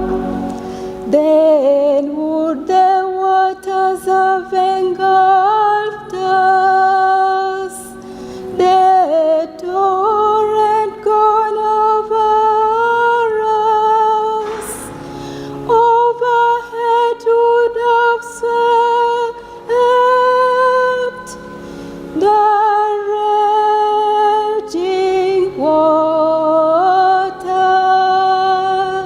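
Slow sacred singing: a melody sung in long held phrases, with short pauses between them.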